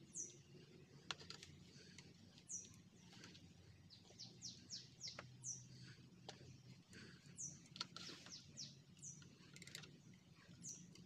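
Faint bird chirps: a scattered series of short, high calls, each falling quickly in pitch, with a few light clicks over a near-silent room.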